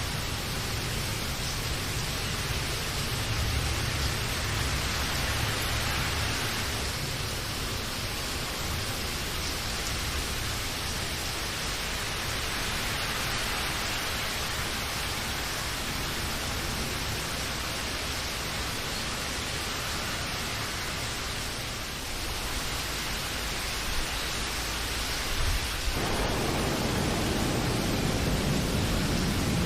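Steady rain, an even hiss with a low rumble underneath. About 26 seconds in, the sound changes abruptly to a fuller, deeper rain.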